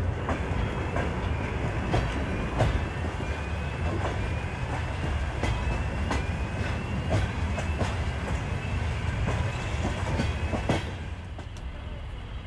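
A railway sleeping car rolling along the track, heard from inside the compartment: a steady low rumble with irregular clicks of the wheels over rail joints and faint, short rising squeaks. The sound drops near the end as the train slows into a station.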